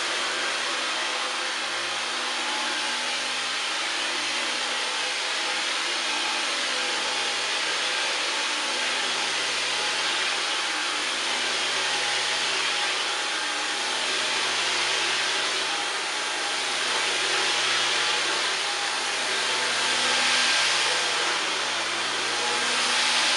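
Dyson V15 Detect cordless stick vacuum running flat out on boost mode: a steady, loud motor whine and rush of air. The level swells and dips gently as the vacuum is pushed and pulled across the floor.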